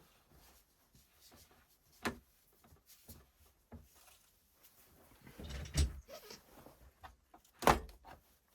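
Handling noise from a cordless drill's parts being worked on: a few separate knocks and clicks, a sharp one about two seconds in, a brief rubbing and thud just before six seconds, and the loudest knock near the end.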